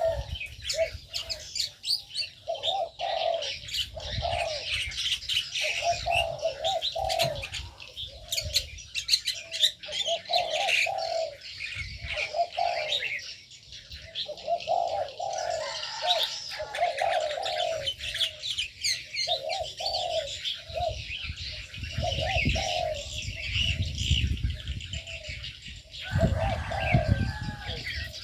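Many doves cooing over and over in an aviary, their low coos overlapping, with a dense chatter of small birds chirping higher up. A low rumble grows louder in the last few seconds.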